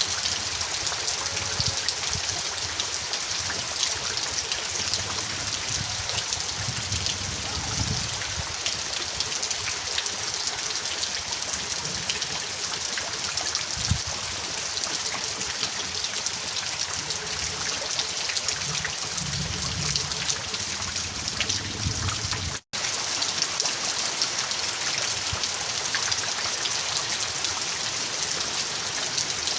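Steady rain: a dense, even hiss of falling drops with fine pattering ticks. The sound cuts out for a split second about two-thirds of the way through.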